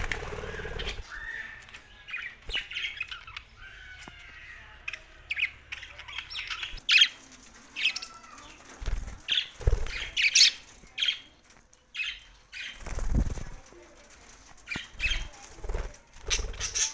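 Budgerigars chirping in short, scattered calls, with several bursts of wing flapping.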